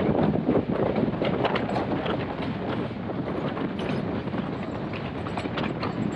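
Passenger train running along the track: a steady rumble of the moving carriage, with many quick, irregular clicks and rattles from the wheels and coach.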